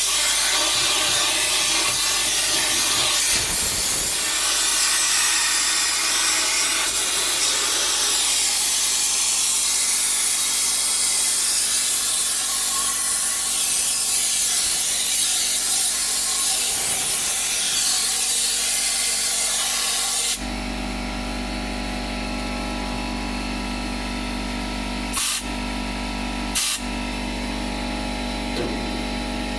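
Compressed air from an air hose blasting through a dryer vent duct: a loud, steady hiss that cuts off abruptly about two-thirds of the way through. After it comes a quieter steady hum, with two sharp knocks a second and a half apart.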